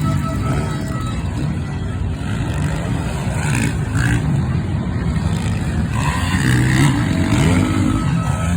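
Motocross bikes running hard through a corner, engines revving and rising in pitch as they drive out, one after another, over a steady rush of engine noise.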